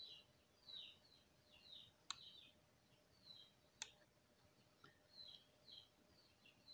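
A small bird chirping faintly in the background, short falling chirps about twice a second. Two sharp computer mouse clicks come about two seconds in and again just before four seconds in, as items in a software font menu are selected.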